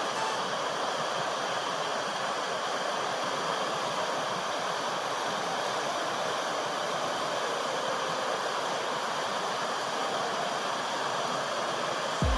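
The Putna waterfall's water pouring in a steady, even rush. A brief low thump near the end.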